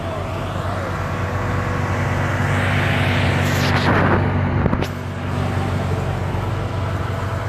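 A motor vehicle's engine running steadily, with a rush of noise that builds over about two seconds and drops off abruptly just before five seconds in.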